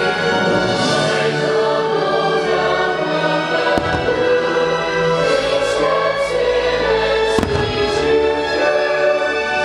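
Fireworks show soundtrack of choir and orchestra singing a sustained chorus, with aerial firework shells bursting over it: a sharp bang about 4 seconds in and a louder one about 7 seconds in, with a few fainter pops between.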